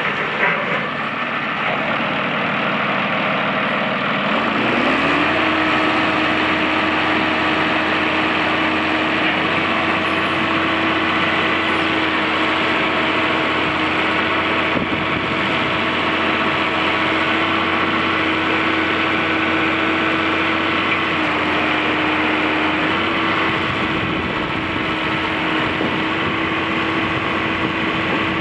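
New Holland TV145 bi-directional tractor's diesel engine idling just after starting, then throttled up about four seconds in to a higher steady speed that it holds, with a couple of slight pitch shifts near the three-quarter mark.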